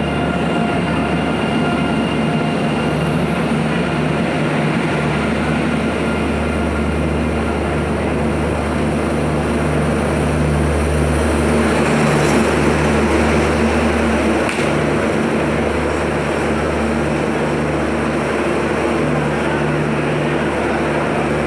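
Passenger train pulling out of the station along the platform: a steady rumble of the coaches rolling past, with a low hum underneath.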